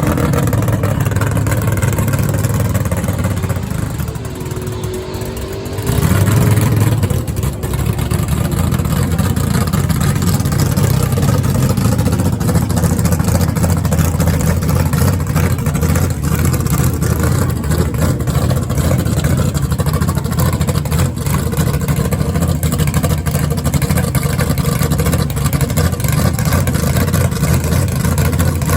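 Drag-racing engines running loud. The noise drops for a couple of seconds, with a faint wavering tone, then comes back suddenly about six seconds in and stays loud.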